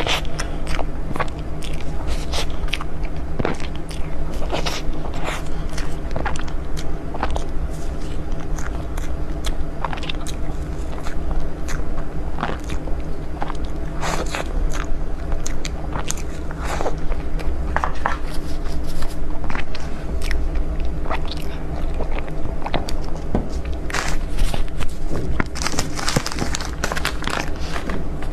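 Close-miked eating of dessert: irregular biting and chewing, with many short sharp clicks and crunches, over a steady low hum.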